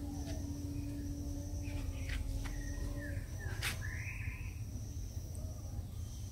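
Birds chirping in short calls over a steady low rumble, with one sharp click about three and a half seconds in.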